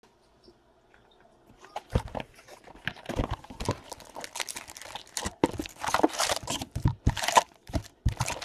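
Plastic wrapping on trading-card packaging being torn and crinkled: a dense, irregular run of crackles starting about two seconds in.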